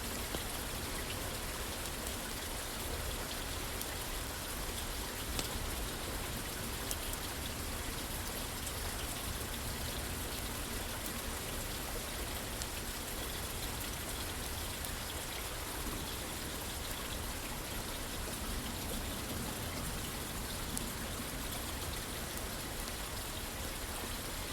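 Steady rain falling, with scattered faint sharp clicks through it.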